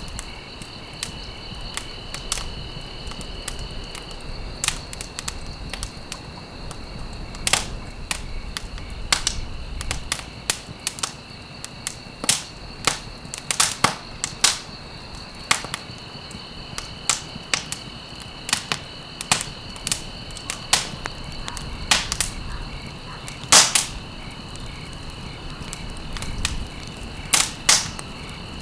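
Burning wood in a fireplace crackling, with irregular sharp pops of varying loudness over a low steady rumble. The largest pops come about halfway through and again a little past three-quarters of the way.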